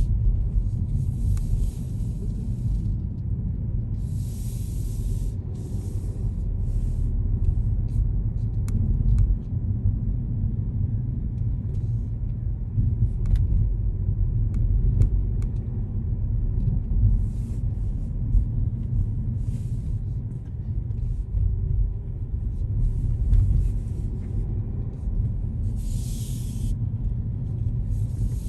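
Steady low rumble of a car on the move: road and engine noise. Short hissing bursts come and go every second or few.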